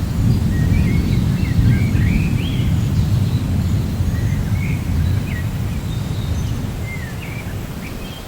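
Low rolling rumble of thunder that fades gradually through the second half, with birds chirping in short, high, scattered calls over it.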